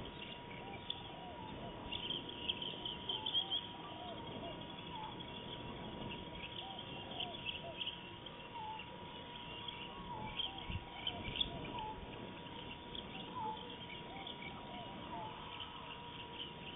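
Forest birds calling at dusk: clusters of quick high chirps, and a lower call of short curling notes repeated every second or two.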